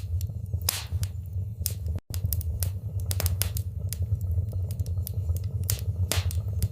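Wood fire burning in a fireplace: irregular sharp crackles and pops over a steady low rumble of the flames. The sound cuts out for an instant about two seconds in.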